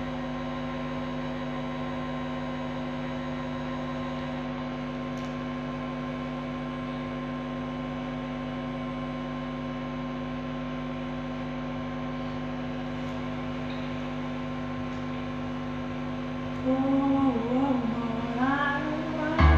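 Steady electrical hum from a sound system, holding several fixed tones. About three seconds before the end, a melody with gliding pitch begins over the hum.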